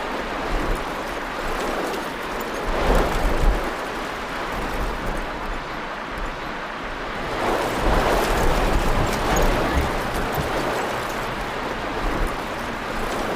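Storm wind blowing and buffeting the microphone, swelling louder about three seconds in and again around eight seconds.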